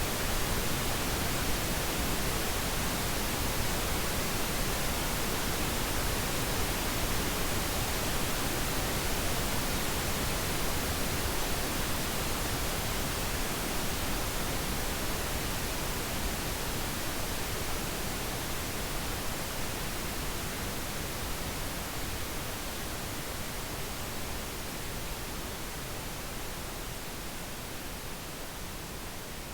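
Pink noise: a steady, even hiss spread from deep low to high, with no tones or clicks, slowly fading out over the second half.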